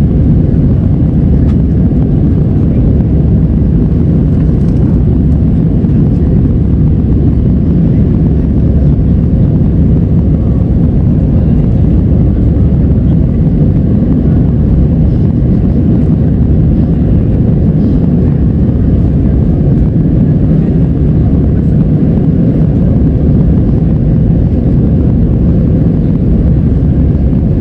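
Airliner cabin noise: the steady, loud rumble of the jet engines and rushing air heard from inside the passenger cabin.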